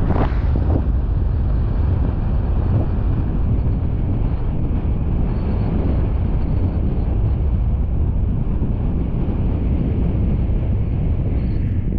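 Steady low rumble of a car on the move, with wind buffeting the microphone.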